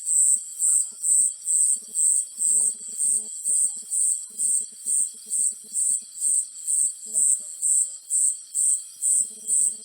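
Cricket chirping steadily, a high-pitched chirp repeated a little over twice a second. Faint low rattling comes in short bouts underneath.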